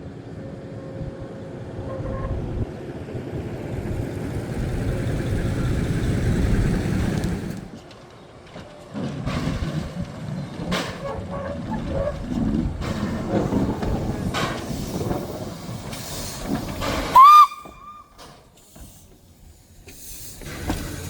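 Heritage train running past with a low rumble that builds over several seconds, then more mixed rolling and steam noise. Near the end, one short, loud, high whistle blast cuts through.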